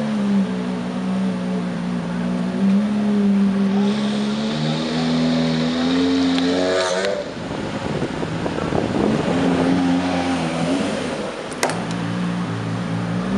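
Supercar engine running at low revs as the car rolls slowly past, with a steady deep note. About halfway through it gives way for a couple of seconds to a louder, rougher surge before settling back.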